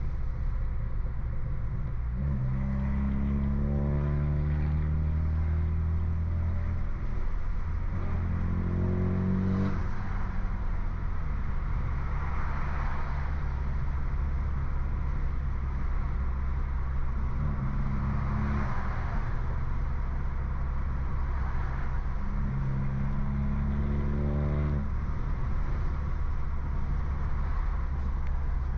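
Tuned BMW F30 328i's turbocharged four-cylinder with aftermarket downpipe, running under load: the engine note climbs in pitch as it revs up three times, at about 2 s, 8 s and 23 s in, with steadier cruising between.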